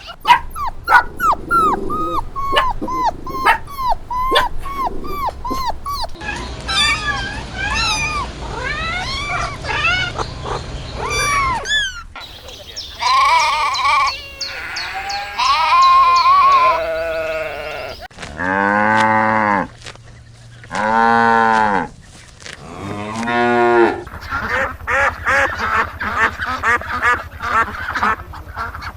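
Farm animal calls in several short back-to-back clips: first runs of short, quick calls, then three long bleats about two-thirds of the way through, then a fast run of calls near the end.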